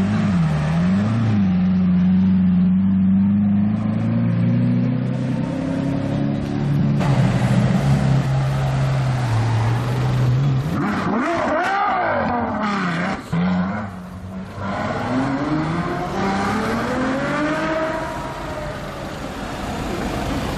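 Supercar engines on the street. One runs with a steady low note after a couple of quick throttle blips, then engines rev sharply up and down, and near the end an engine note rises and falls as a car accelerates past.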